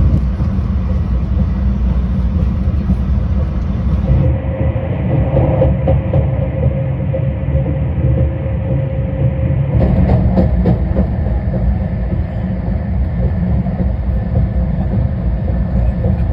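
Talgo-built Afrosiyob high-speed train running, a loud steady low-pitched noise with a faint steady tone above it.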